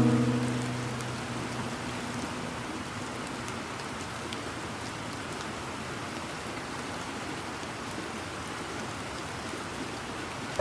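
Steady rainfall, an even hiss of rain with faint scattered drop ticks. A piano chord rings out and fades over the first second or so.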